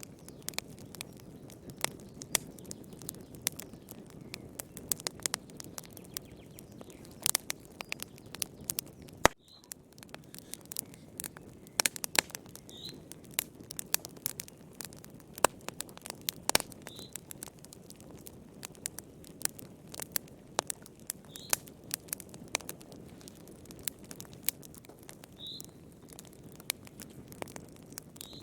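Fire in a fireplace crackling: frequent sharp pops and snaps of varying loudness over a low steady rumble of flame. The sound drops out for a moment about nine seconds in, and a faint short high chirp recurs about every four seconds.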